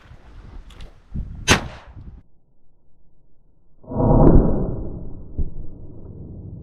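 A shotgun shot, sharp and brief, about a second and a half in. About four seconds in comes a louder, deep boom that dies away over about two seconds.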